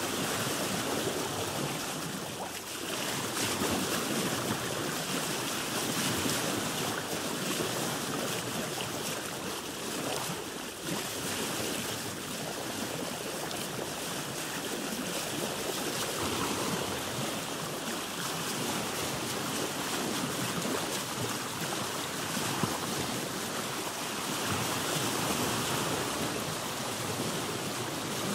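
Sea water washing and sloshing against a boat's hull, a steady wash that swells and eases every few seconds.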